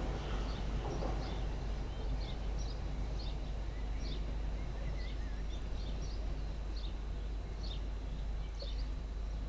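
Small birds chirping in short, high calls, about one or two a second, over a steady low background rumble.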